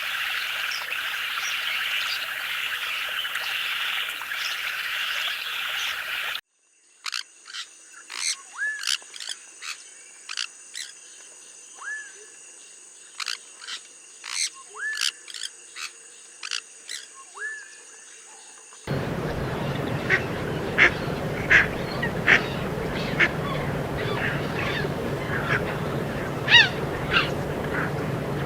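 Rainforest ambience in three sections. It opens with a dense, even chorus of calling frogs. About six seconds in it cuts to birds giving short chirps and upward-sweeping whistles over steady high-pitched insect tones. Near twenty seconds it cuts again to many short bird chirps over a steady rushing hiss with a low hum.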